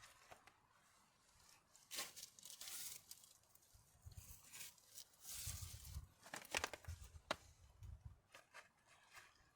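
Intermittent rustling and crinkling handling noises, like material being torn or crumpled, with a few sharp clicks in between.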